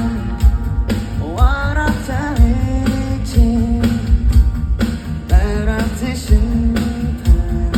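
Live rock band music with a steady drum beat, guitars and a sung vocal line, recorded from the crowd at a concert.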